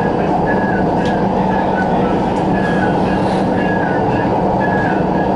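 CRRC Changchun-built MTR West Rail Line train running at speed, a steady rumble of wheels and motors. A faint short high tone steps down and repeats about every two-thirds of a second.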